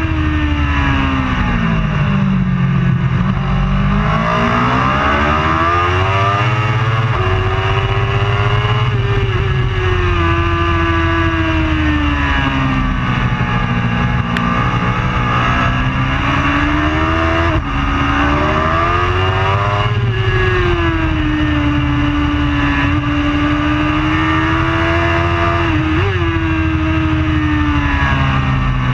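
Superbike racing motorcycle engine at high revs, its pitch sinking and climbing again and again as the bike slows and accelerates around the circuit, with a couple of quick sharp blips.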